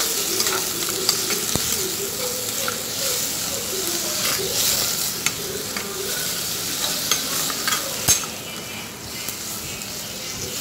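Sliced onion, curry leaves and tomato sizzling in hot oil in a clay pot while a steel spoon stirs and scrapes them, with sharper clicks of the spoon against the pot about 1.5 s and 8 s in.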